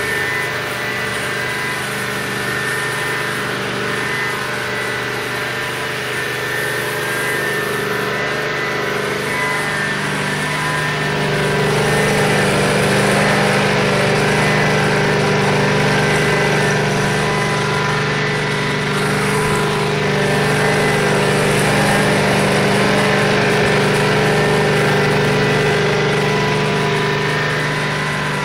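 Truck-mount carpet cleaner's Kohler 22 hp V-twin gas engine running steadily with its blower and pump, growing louder about eleven seconds in.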